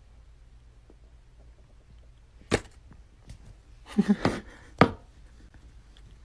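A few sharp knocks or clicks over a low hum: one about two and a half seconds in, a short cluster around four seconds, and another just before five seconds.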